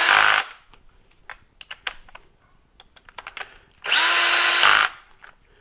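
Power drill running in short bursts, driving oil pan bolts down in a crisscross pattern: a brief burst at the start and another lasting about a second near four seconds in. Light clicks and taps of tools and bolts between.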